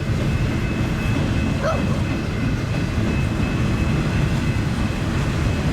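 Cars of a long, mostly empty double-stack freight train rolling past while slowing: a steady rumble of wheels on rail, with a thin, steady high whine over it.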